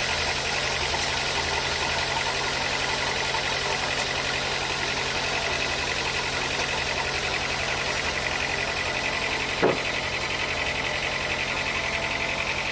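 Sawmill machinery running steadily with a constant mechanical hum and whine, with a single short knock a little under ten seconds in.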